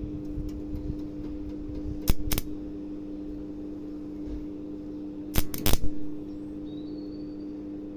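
A steady electrical hum with sharp metallic clicks: two about two seconds in and a quick cluster of three a little past halfway.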